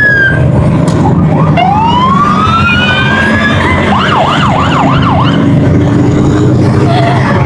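Emergency vehicle siren sounding: long rising wails, then about a second of fast up-and-down yelping around four seconds in, over a steady low rumble.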